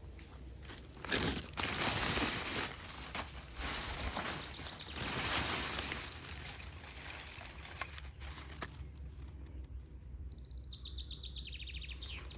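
A songbird's rapid trill of quick notes stepping downward in pitch near the end. It is preceded by several seconds of loud rustling, hissing noise and a single sharp snap.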